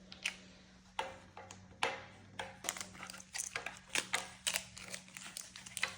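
Small plastic toy pieces being handled: irregular light clicks and taps, a few per second, with some faint crinkling.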